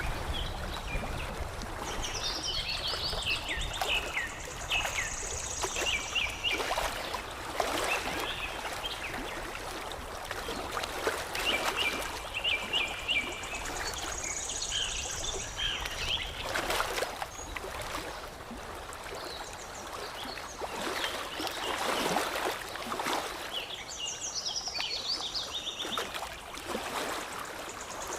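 Water lapping and splashing in short, irregular washes, with small birds chirping and trilling in three bursts of song, one early, one in the middle and one near the end.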